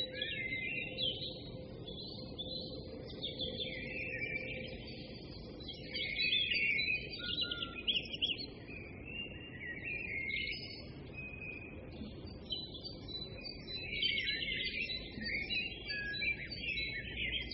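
Small birds chirping and twittering continuously in quick, high, overlapping calls, over a faint low background hum.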